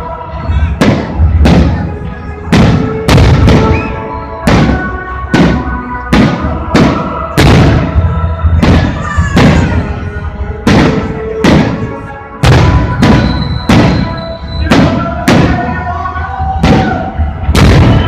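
Fireworks display, aerial shells bursting in quick succession, about one and a half booms a second, each with a trailing echo. Music plays under the bursts.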